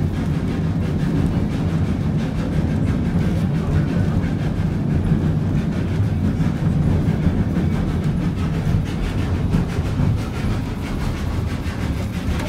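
Narrow-gauge steam-hauled passenger train in motion: a steady, fairly loud rumble of the cars running on the rails.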